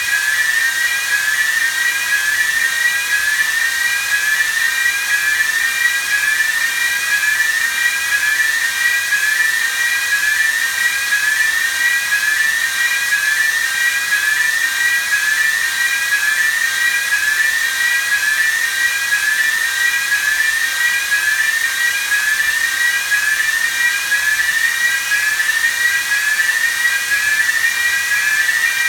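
An electronic alarm sounder sounding continuously, its tone repeating a quick rising sweep over and over, over a steady hiss of rushing air or machinery.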